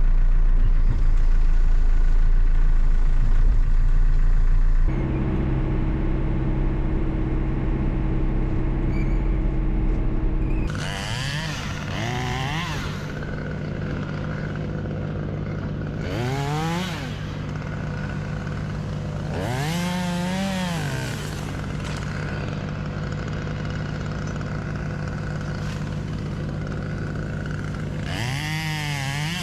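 Steady engine drone that changes abruptly twice. Then a chainsaw revs up and eases back four times, each rise and fall of pitch lasting a second or two, over the continuing engine hum.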